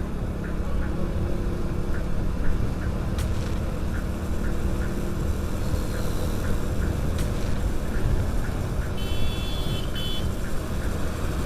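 Riding a small Hero HF Deluxe commuter motorcycle: its engine runs steadily under heavy road and wind noise. A short horn honk sounds about nine seconds in.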